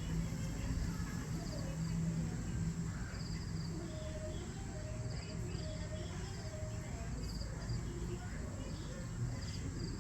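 Crickets chirping in short, evenly repeated pulsed trills over a steady high-pitched insect drone and a low, constant background rumble, with a few short tonal calls about halfway through.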